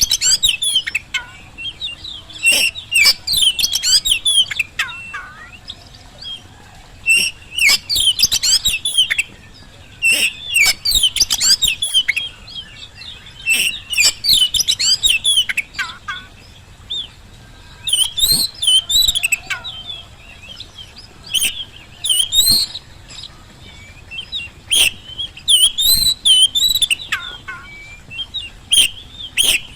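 Oriental magpie-robin singing in repeated bursts of rapid, varied whistles and sharp notes, with short pauses between phrases. It is a full, continuous 'gacor' song of the kind used to stir other magpie-robins into answering.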